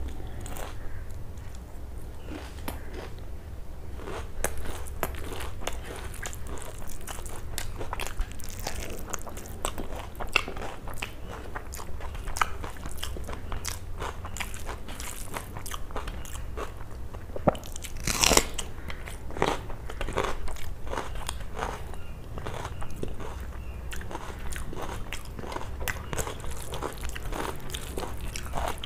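Close-miked eating: chewing with frequent sharp crunches and crackles of food in the mouth. One louder crunch comes about 18 seconds in.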